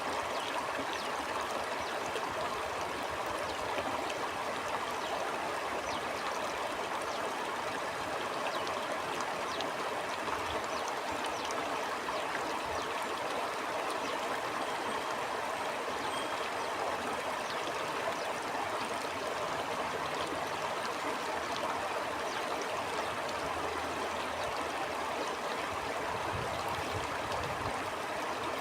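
Stream water flowing steadily over rocks, a constant rushing with small gurgles and trickles.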